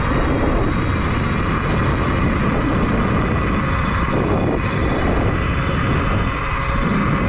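Wind buffeting the microphone on a moving electric bike, over a steady whine from the Bafang BBS-HD mid-drive motor under power.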